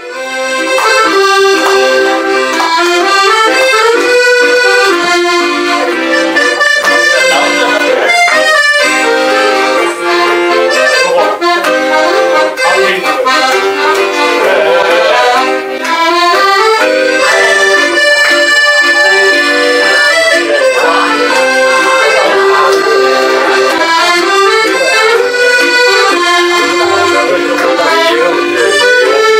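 Accordion playing a lively melody with chords, starting suddenly out of silence.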